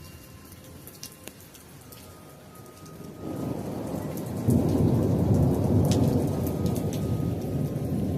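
Hard rain falling, with many drops striking close by. About three seconds in, a low roll of thunder rises and swells, loudest about halfway through.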